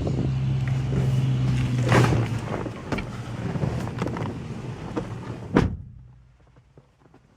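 Car engine running steadily with scattered clunks, then one sharp loud thump about five and a half seconds in, after which the engine sound falls away.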